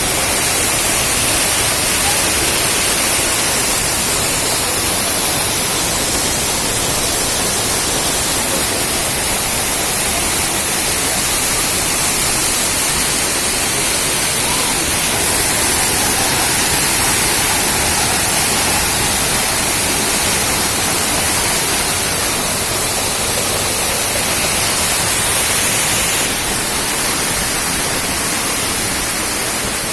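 Waterfall: a steady, loud rush of falling water that drops a little in level near the end.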